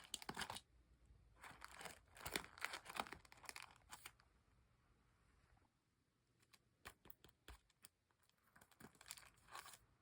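Faint, scattered crinkling and rustling in short clusters, with a quiet gap in the middle and a few separate clicks near the end.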